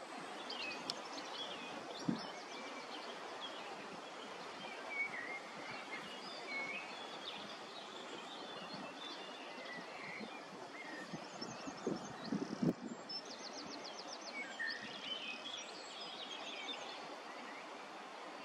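Outdoor background: small birds chirping and calling now and then over a steady hiss, with a quick rapid trill a little past halfway and a couple of low bumps.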